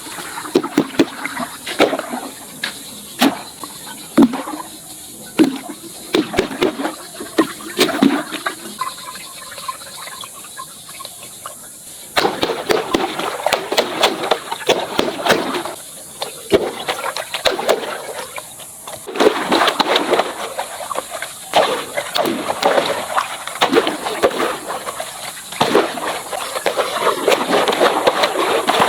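Water gushing and splashing, with many sharp clicks and pops. It grows louder and denser about twelve seconds in.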